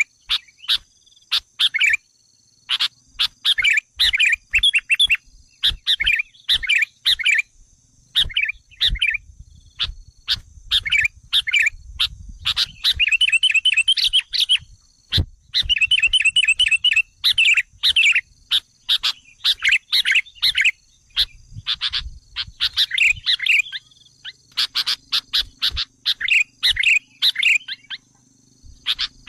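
Sooty-headed bulbul (kutilang) calling: a dense run of sharp chirps and fast chattering trills with only brief pauses. These are the excited calls used as a lure to provoke wild bulbuls.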